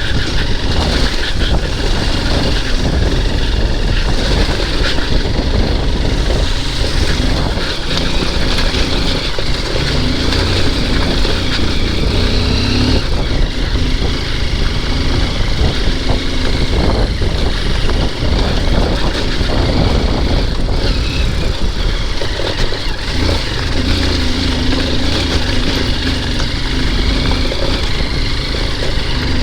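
Honda XR dirt bike's single-cylinder engine running under way over rough off-road ground, its note rising and falling with the throttle, mixed with steady wind rush over the microphone.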